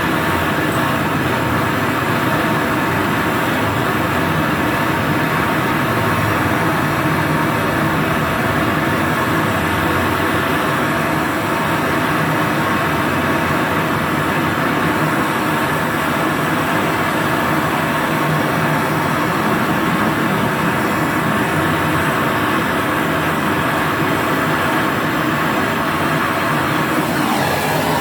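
Acetylene torch flame burning with a steady, even rushing noise while brazing a charging valve onto a refrigerator compressor line.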